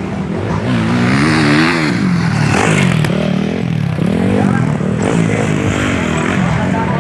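Motocross dirt bike engines revving, their pitch rising and falling several times as the throttle opens and closes.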